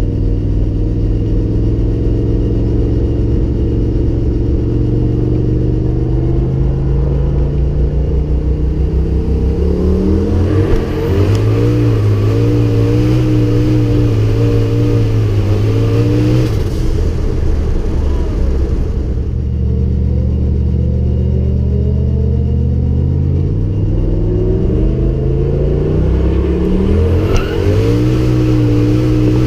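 Turbocharged Toyota 1UZ-FE V8 heard from inside the Corolla's cabin, revving up over the first ten seconds and held at high revs for about six seconds, then dropping back. It climbs again later, with a brief dip in pitch near the end.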